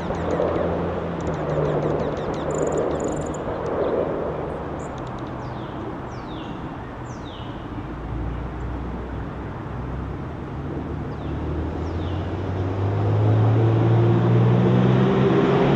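A distant engine drone with a steady low hum, growing louder about two thirds of the way through, while a few faint, quick, descending bird chirps sound now and then.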